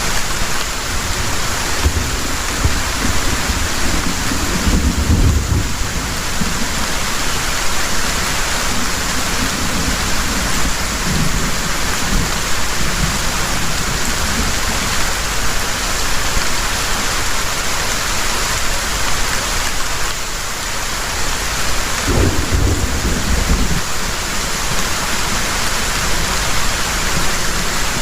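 Heavy rain falling steadily, with low rumbles of thunder in the first few seconds, a fainter one near the middle and another about 22 seconds in.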